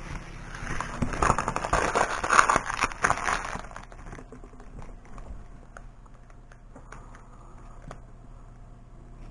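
Excess vinyl being peeled off a cut decal sheet's backing paper (weeding), a crackling, clicking rustle for about three and a half seconds, then a few scattered small clicks and taps.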